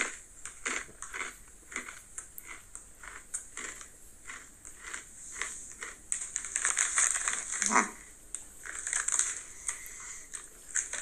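A person chewing crunchy Cheetos Pretzels snacks: a run of crisp crunching crackles, thickest from about six seconds in.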